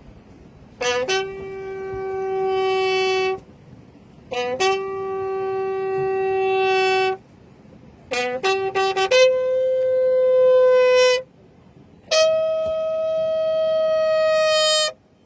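Music: a wind instrument plays slow, long held notes, each opened with a quick run of grace notes and swelling in loudness as it is held. The four long notes step upward in pitch over the passage.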